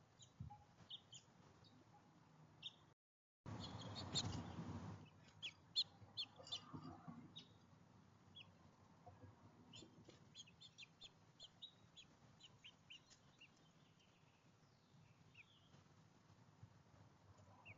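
Small backyard songbirds chirping, many short, high calls scattered throughout. About three seconds in the sound drops out briefly and comes back with a second or so of low rushing noise under the chirps.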